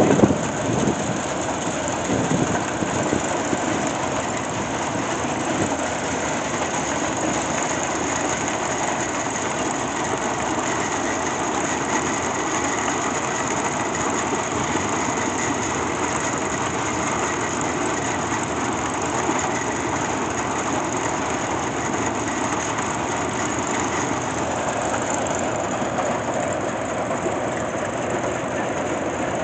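Machinery running steadily with a dense, even mechanical clatter.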